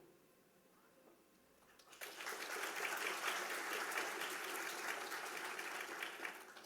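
Audience applauding, starting about two seconds in and dying away shortly before the end.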